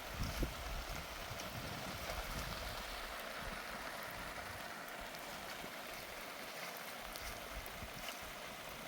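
Steady heavy rain falling, with scattered sharp drop ticks over an even hiss.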